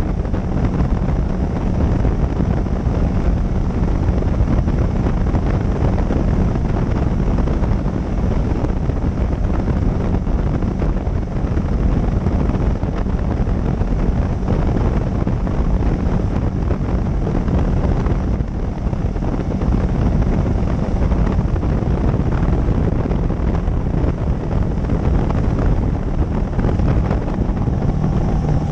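Wind rushing hard over a motorcycle-mounted microphone at riding speed, with the motorcycle's engine running as a steady drone underneath.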